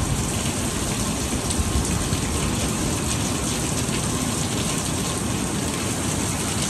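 Steady tropical-storm rain falling hard and evenly, a constant hiss of water with no let-up.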